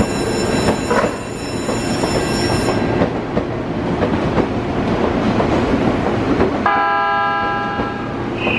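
A commuter train pulling out of a station platform, with a continuous rumble of wheels on rail. For the first three seconds a steady high electronic tone sounds over it. A second steady electronic tone comes in about two-thirds of the way through.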